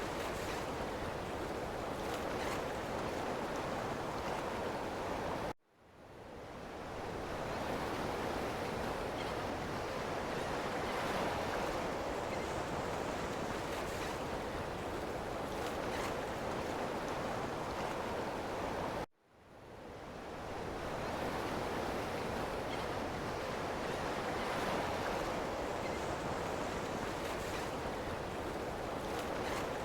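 Ocean surf washing steadily on a shore. It cuts out abruptly twice and fades back in over a second or two each time.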